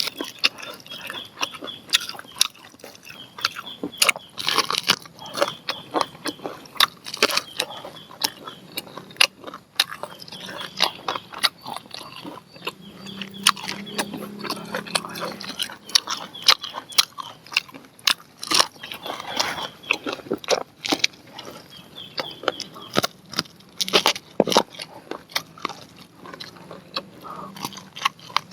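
Close-miked eating of grilled corn on the cob: a run of quick, irregular crunches and wet clicks as kernels are bitten off the cob and chewed.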